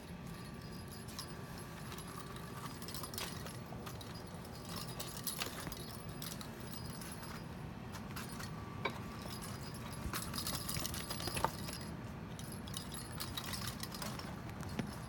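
A kitten at play sets off scattered light jingling, clinking and rattling, in irregular clusters over a steady low hum.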